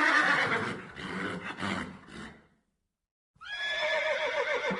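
Horse whinnying twice. The first neigh fades out over about two seconds. After a short pause, a second whinny comes near the end with a quavering, falling pitch.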